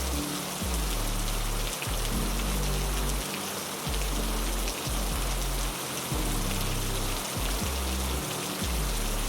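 Heavy rain falling steadily, an even hiss of drops, over soft low music notes that change every second or two.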